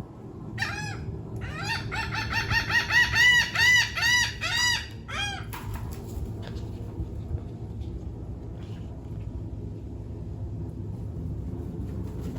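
A bird calling: a single ringing note, then a fast run of repeated arched notes, about three a second, for about four seconds, ending abruptly.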